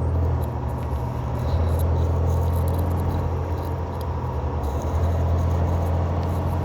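Semi truck's diesel engine running steadily under way, heard from inside the cab: a low, even drone with a hiss of road noise over it.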